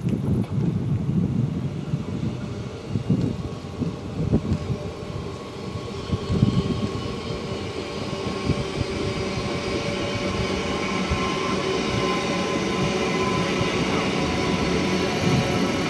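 A train running by on the track: an uneven low rumble with a few knocks, then from about seven seconds in a steadier sound with a whine of several high tones.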